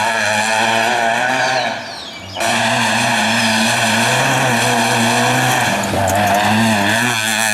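Volkswagen Polo rally car engine running hard at high revs. It drops away briefly about two seconds in, then comes back loud and steady.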